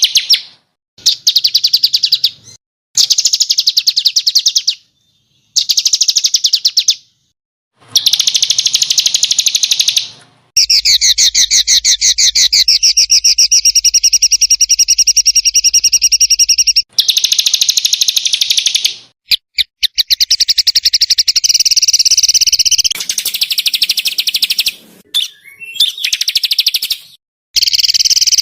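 Small songbirds giving rapid, harsh trilling calls: very fast, high runs of notes in bursts lasting from one to several seconds. The bursts start and stop abruptly with short silent gaps between them, as in a spliced training recording.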